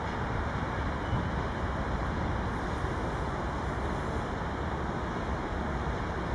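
Train moving slowly past, a steady rumble with no distinct horn, engine note or wheel clicks.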